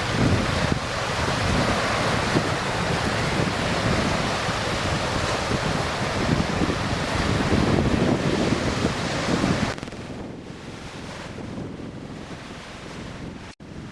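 Wind buffeting the microphone over a rushing, surf-like hiss, gusting loud, then dropping off abruptly about ten seconds in to a much quieter hiss.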